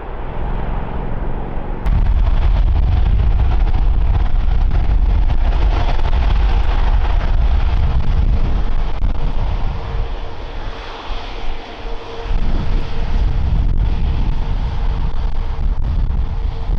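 Airbus A350's Rolls-Royce Trent XWB jet engines running: a loud, deep rumble with a hissing roar on top, jumping abruptly louder about two seconds in, easing briefly past the middle before building again.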